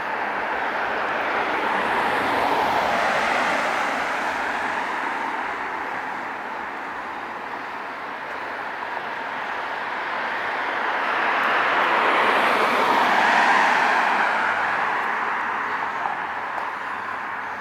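Street traffic passing: two vehicles go by one after the other, each a swelling and fading rush of tyre and engine noise, the second louder, about thirteen seconds in.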